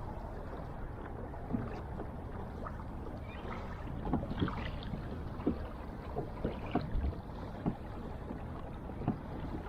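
Water lapping and slapping against the hull of a fishing kayak: a steady low wash with scattered short knocks and splashes, busiest in the middle of the stretch.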